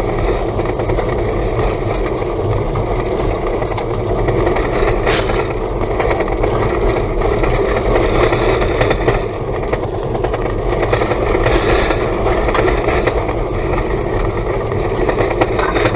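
Road noise inside a Toyota Tank minivan driving over a rutted, washboard-like road strewn with crushed stone: a loud steady rumble of tyres and suspension, with gravel knocking against the underbody, wheel arches and sills.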